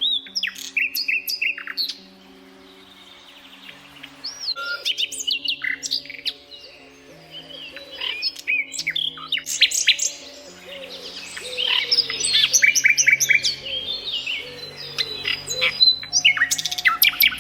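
Songbirds chirping and singing, several calls overlapping: whistled slurs, trills and quick runs of repeated notes, with a brief lull about two seconds in.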